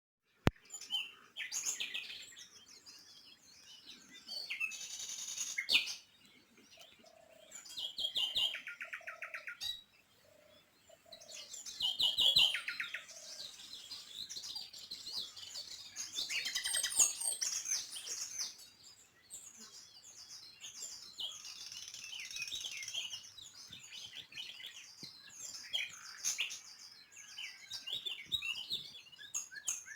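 Small songbirds chirping and singing: many short calls and quick trills overlapping throughout, with a single sharp click about half a second in.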